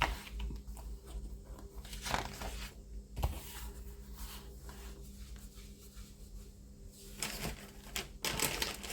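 Packaging and small parts being handled on a table: scattered light clicks and rustles, growing into a denser spell of rustling near the end.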